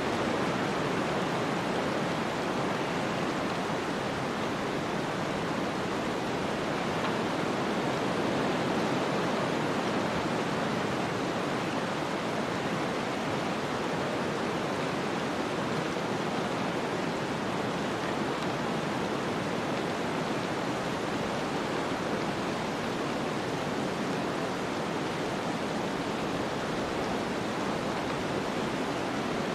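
Steady snowstorm ambience: an even rushing hiss of wind-driven snow that keeps a constant level, with no gusts, crackles or other separate sounds.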